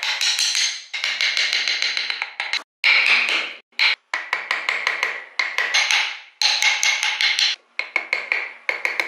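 Rapid hammer taps, several a second, each with a bright metallic ring, in bursts that stop and restart abruptly.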